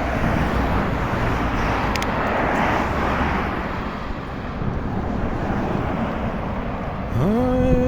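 Steady rushing wind and road noise of a bicycle ride, with a heavy low rumble. About seven seconds in, a voice starts humming a held, tuneful note.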